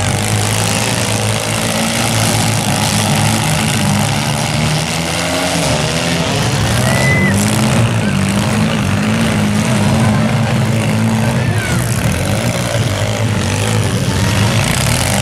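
Engines of several compact demolition derby cars running and revving together, loud and continuous, with their pitch wavering up and down as the drivers work the throttle.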